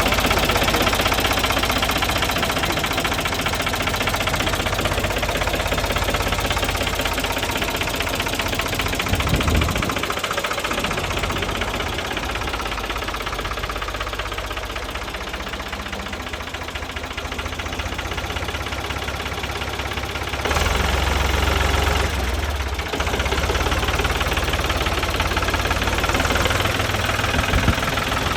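1968 Ford Force 3000 tractor's three-cylinder diesel engine running steadily. It gets noticeably louder all at once about twenty seconds in.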